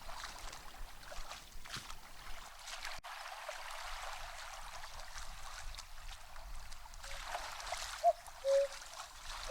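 Steady sound of running or lapping water. Near the end a common cuckoo calls its two-note 'cuck-oo', a higher short note then a lower longer one, repeated.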